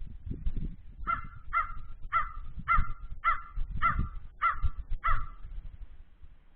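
A crow cawing, a series of eight harsh caws at about two a second.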